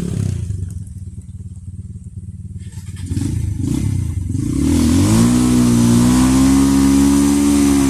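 Trail motorcycle engine running at low revs, then revved up quickly about five seconds in and held high and steady.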